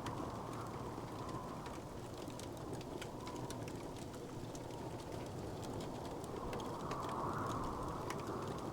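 Wood fire crackling: many small, scattered pops and snaps over a steady low rushing noise that slowly swells and eases.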